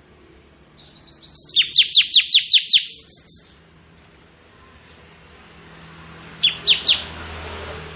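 Bar-winged prinia (ciblek) singing: a rapid run of a dozen or so sharp, high, downward-sweeping notes about a second in, lasting over two seconds, then three quick loud notes near the end. A soft rushing noise swells and fades under the last notes.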